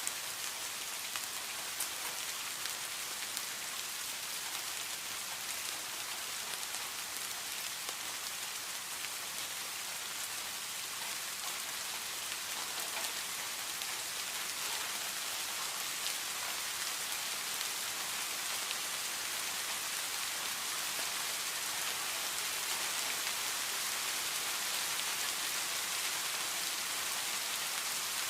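Steady heavy rain falling on a surface, a dense even hiss of drops with fine individual patter, growing slightly louder near the end.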